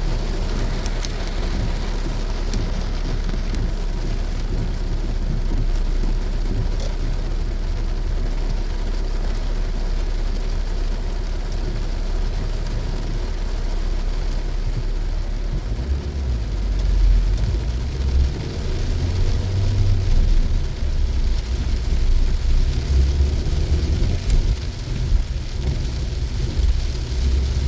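Heavy rain pelting a moving car, heard from inside over the car's road noise. About halfway through, a deeper, uneven rumble swells in and the sound grows louder and more uneven.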